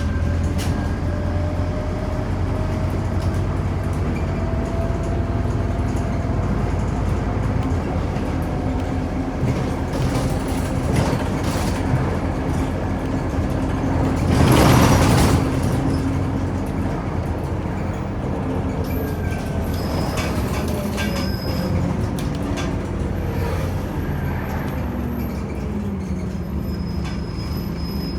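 Scania Omnicity bus under way, its diesel engine running with the pitch slowly rising and falling. About halfway through comes a loud hiss of compressed air lasting about a second, such as the air brakes or suspension venting.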